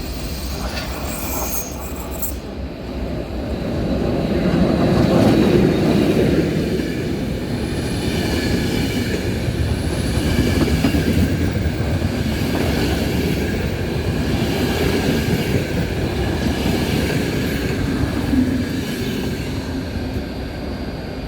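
A train running past on the rails, with a rumble and clatter of the wheels and faint wheel squeal. It swells to its loudest about five seconds in and stays loud until near the end.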